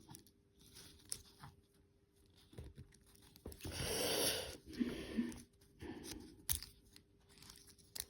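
Small handling noises from working on a model locomotive by hand: light clicks and taps of small parts, with a longer scraping, crackling stretch about four seconds in.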